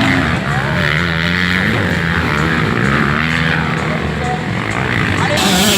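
Motocross bikes' engines revving on the track, their pitch rising and falling as they accelerate and shift.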